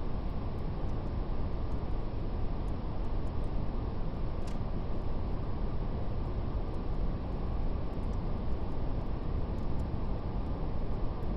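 Steady brown noise, a deep, even hiss, with a faint, irregular crackle of a fire; one crackle, about four and a half seconds in, stands out a little.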